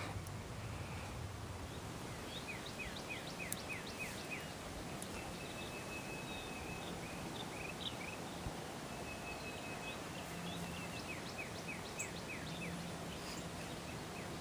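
Outdoor ambience with a steady background hiss, over which a bird calls: a quick run of short falling chirps about three seconds in and again about eleven seconds in, with a few higher held notes between.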